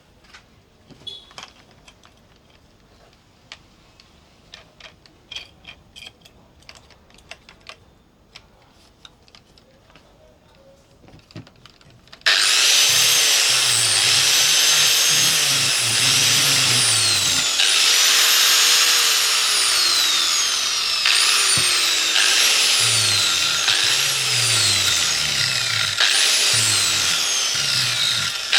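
Light tapping and handling clicks, then a handheld electric power tool starts abruptly about twelve seconds in and runs loudly. Its speed repeatedly jumps up and then sags in a long falling whine as it is pressed into the work.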